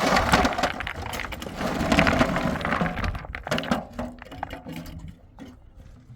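Scraping and clattering of hard building materials being handled, starting abruptly, dense for about three seconds, then thinning out to scattered knocks and clicks.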